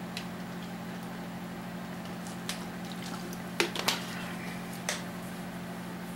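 A few sparse, sharp metal clicks and taps of hand tools and bolts against the engine, the loudest pair a little past halfway, over a steady low hum.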